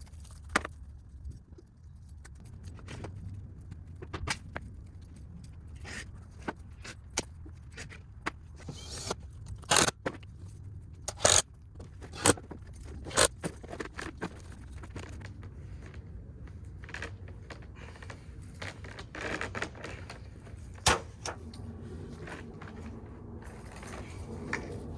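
Irregular sharp clicks and knocks of hand tools and fence parts being handled during repair work, the loudest in a cluster about ten to thirteen seconds in. A steady low hum runs underneath.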